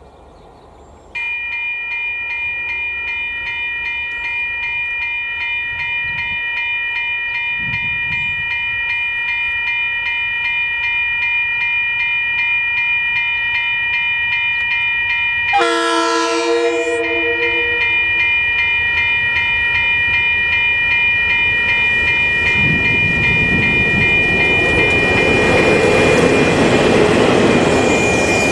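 Level crossing electronic bells (Western Cullen Hayes e-bells) switch on about a second in and ring on with a fast, even repeating ding. About halfway through a train horn sounds one short blast, and over the last several seconds the approaching train's rumble grows louder under the bells.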